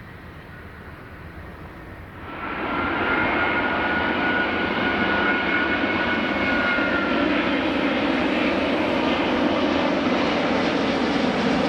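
Airbus A380 arriving close by, its jet engines running loud with a steady two-tone high whine over a broad rumble. It cuts in suddenly about two seconds in, after a quieter stretch of noise.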